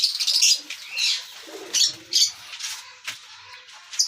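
Lovebirds chirping in a run of short, high-pitched calls, with a sharp click about three seconds in.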